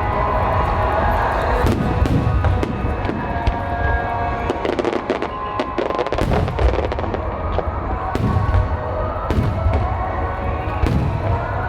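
Aerial fireworks bursting one after another, with a dense run of crackling bangs in the middle.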